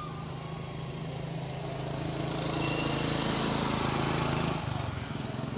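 A small engine running steadily nearby, growing louder over the first four seconds and then dropping away sharply, with a hiss over it that rises and falls with it.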